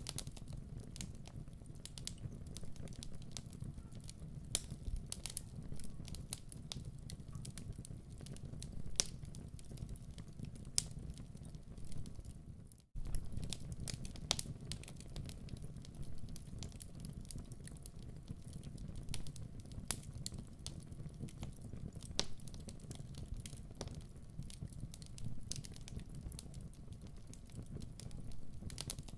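Wood fire in a fireplace crackling, with irregular sharp pops over a low steady rumble of the flames. The sound cuts out for an instant about 13 seconds in, then carries on.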